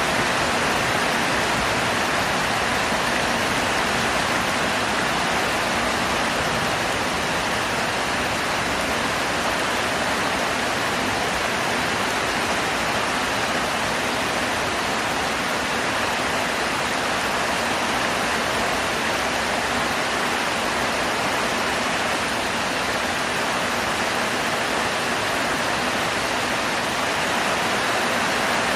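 Heavy tropical downpour: a dense, steady hiss of rain with no individual drops standing out.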